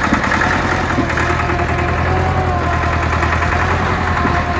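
Massey Ferguson 275's Perkins diesel engine running rough with a miss on one cylinder, which the owner takes to be a cylinder starving for fuel from a faulty injector.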